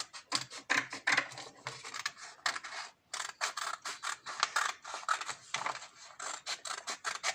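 Scissors cutting through a folded sheet of A4 paper: an uneven run of crisp snips and paper crunches.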